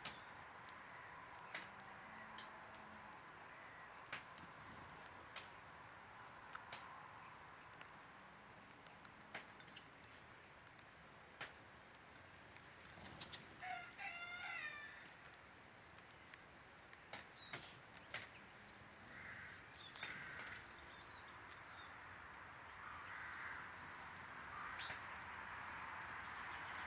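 Wild birds at a garden bird table: scattered faint chirps and short calls with sharp clicks and flutters, and one warbling call about fourteen seconds in.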